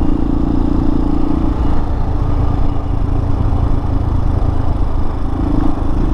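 Hawk 250 dual-sport motorcycle's single-cylinder engine running under way. Its pitch drops about one and a half seconds in and climbs back up near the end.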